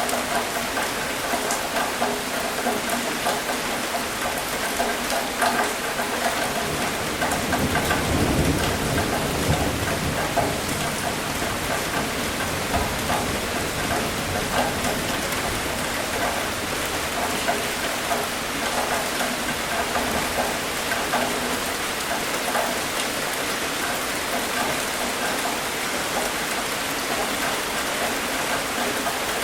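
Steady rain falling and pattering on surfaces. A low rumble of thunder swells and fades about eight seconds in.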